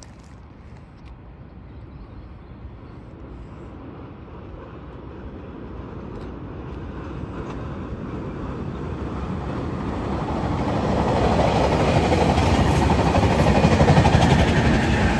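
NCTD COASTER commuter train with a diesel locomotive approaching over a trestle bridge: its rumble and wheel noise grow steadily louder and peak near the end as the locomotive comes close, with a steady low engine hum coming in at the end.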